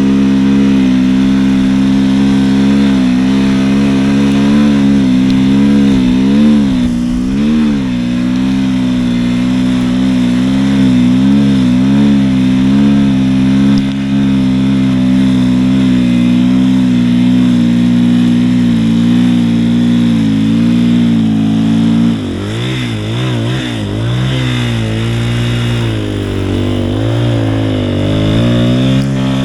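450cc single-cylinder four-stroke snowbike engine running under load, its pitch wavering as the throttle is worked. About three quarters of the way through, the revs swing rapidly up and down for a few seconds before settling back to a steady pull.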